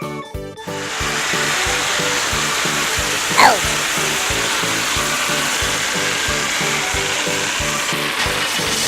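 Cartoon sound effects over bouncy children's background music: a steady, buzzing hiss like a power tool runs from about a second in until near the end, and a quick falling whistle sounds about three and a half seconds in.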